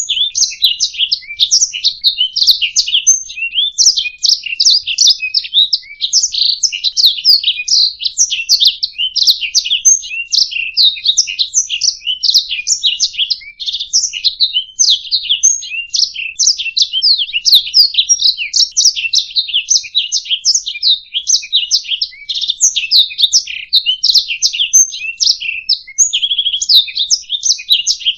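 Domestic canary singing a continuous, high-pitched song of rapid chirps and trills with no pauses.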